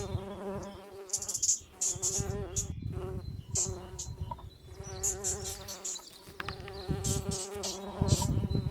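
Insects buzzing steadily around neglected beehive frames, a wavering, droning buzz, with intermittent crackling and hissing noise over it.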